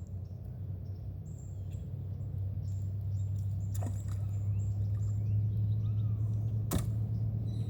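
Small birds chirping over a steady low hum, with two sharp clicks, one about four seconds in and a louder one near seven seconds.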